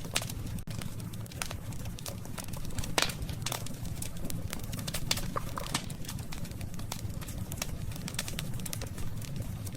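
Wood campfire crackling, with sharp pops scattered irregularly over a low steady rumble of the burning fire; the loudest pop comes about three seconds in.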